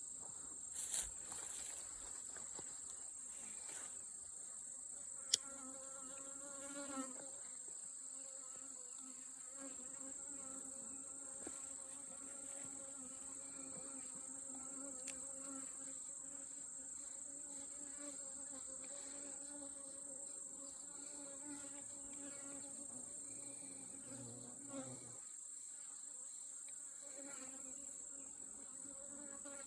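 Honeybees buzzing around an open hive, a steady low hum that fades out about 25 seconds in, over a constant high-pitched insect-like whine. One sharp click about five seconds in.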